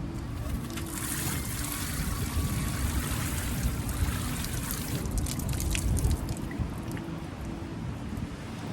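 Surf washing up the beach, a foamy hiss that swells about a second in and fizzes and crackles as the water runs up the sand.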